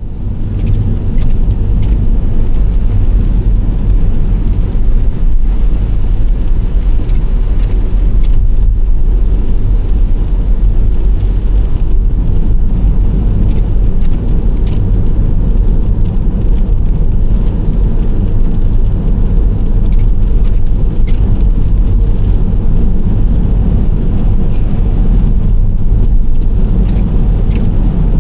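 Nissan Serena C25 minivan on the move: a steady low rumble of road and engine noise that holds even throughout, with a few faint scattered ticks.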